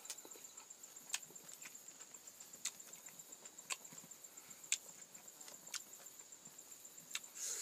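Eating sounds from a man chewing a mouthful of rice and fish: sharp wet mouth clicks about once a second. Behind them runs a steady, high, finely pulsing insect trill.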